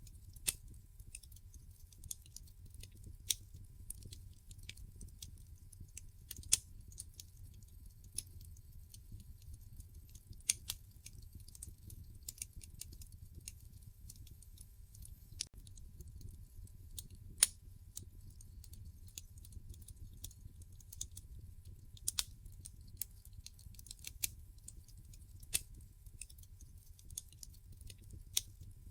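Wood fire in a fireplace crackling: irregular sharp pops and snaps over a low, steady rumble of burning, with a few louder pops scattered through.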